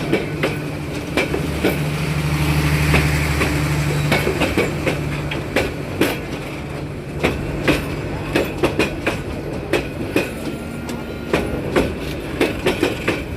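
Train running along the track, its wheels clicking sharply and irregularly over the rail joints, with a low steady hum that swells for a couple of seconds near the start and then fades.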